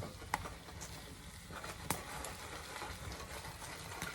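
Turon (banana spring rolls) frying in oil and caramelized sugar in a pan on a wood stove: a steady sizzle, with a couple of sharp clicks.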